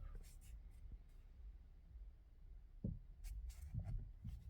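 Steering wheel of a 2018 Hyundai Creta being turned by hand, with faint rubbing, a few soft clicks and one dull thump about three seconds in, from the steering column where the electric power steering sits.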